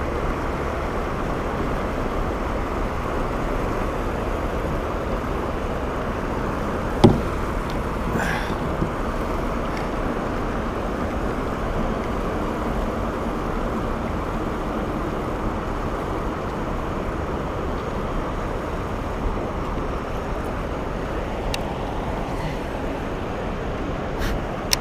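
Steady rushing of a small waterfall, with one sharp knock about seven seconds in.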